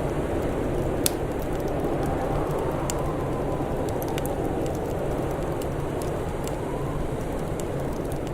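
Wood fire crackling: scattered small sharp pops, one louder pop about a second in, over a steady low rumbling hiss.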